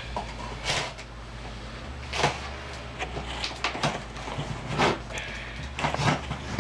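Cardboard gift package being handled and opened: a handful of short, sharp scraping and tearing noises at uneven intervals, over a steady low hum.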